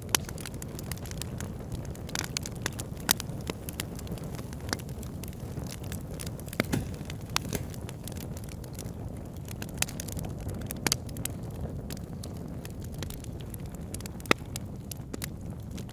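Wood fire burning in a fireplace: a steady low rush of flames with irregular crackles and a few sharper pops.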